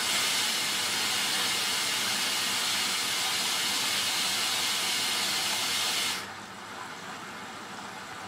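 Hoover DYN9144D3X washing machine's inlet valve opening: water rushing in with a loud, steady hiss, cut off abruptly about six seconds in, leaving a quieter flow. This is the machine filling early in a Rapid wash cycle.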